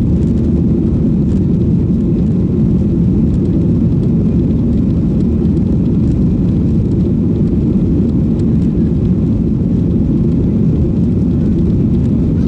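Boeing 737-800 CFM56-7B jet engines at take-off power, heard from inside the passenger cabin as a loud, steady low rumble.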